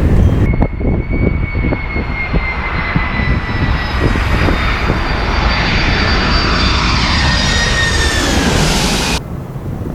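Jet airliner engines whining as the aircraft passes, the high whine slowly falling in pitch, with wind buffeting the microphone; the sound cuts off abruptly near the end.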